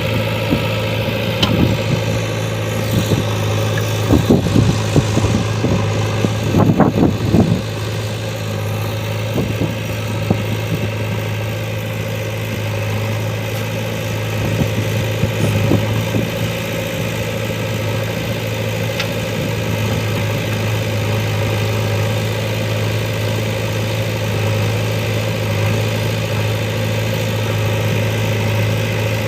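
Heavy diesel engine running steadily, with a cluster of knocks and clatter about four to seven seconds in and a few single knocks later.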